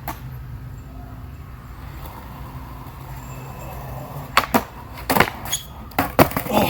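Skateboard wheels rolling on pavement with a steady low rumble, then, about four seconds in, a quick series of sharp clacks as the deck's tail, nose and wheels strike the ground during a trick.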